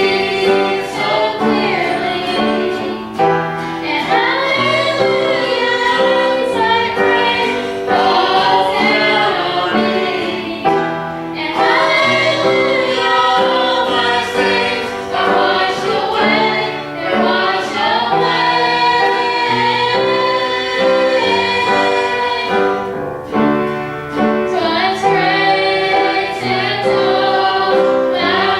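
A choir singing a gospel hymn, with sustained notes and a steady accompaniment underneath.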